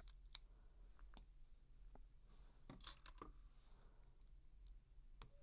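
LEGO bricks being handled: a few scattered plastic clicks and taps, the sharpest about a third of a second in and a small cluster around three seconds in.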